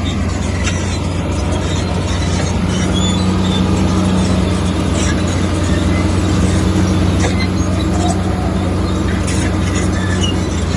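Heavy diesel earthmoving machinery running steadily under load, a loud, constant engine drone with a rattling, grinding haze over it.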